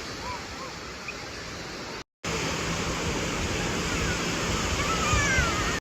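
Steady wash of Lake Michigan surf and wind at the shore, with faint distant voices of children calling. It gets louder after a cut about two seconds in.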